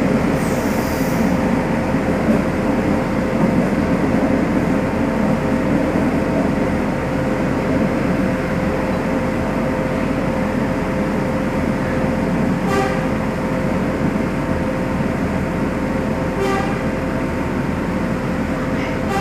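Passenger train running, a steady rumble with a constant hum. Two brief higher-pitched sounds come a few seconds apart near the end.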